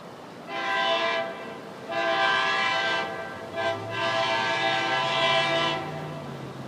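Multi-note air horn of a Tri-Rail BL36PH diesel locomotive sounding the long, long, short, long grade-crossing signal as the train approaches.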